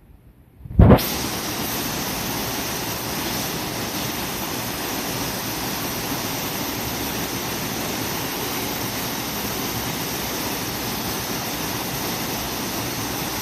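Waterfall: falling water making a steady, even rush that starts abruptly about a second in, with a brief louder burst as it begins.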